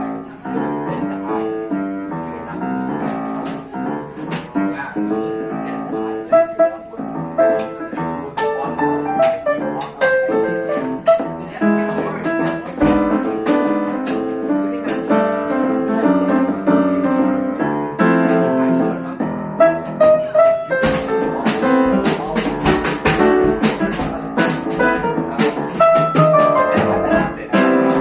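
A live jazz band playing, with piano chords and melody to the fore; deeper low notes and sharper high strikes join about two-thirds of the way through.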